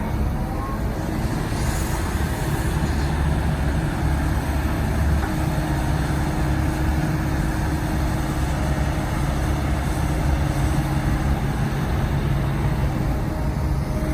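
Diesel engine of heavy earthmoving machinery running steadily, a low continuous rumble with a steady engine note.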